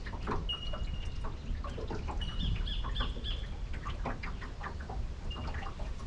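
Several birds calling, a busy mix of short chirps and brief high whistled notes repeated every second or so, over a low steady rumble.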